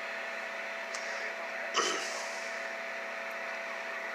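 Steady electrical hum and hiss, with a faint click about a second in and a short, louder noise near two seconds.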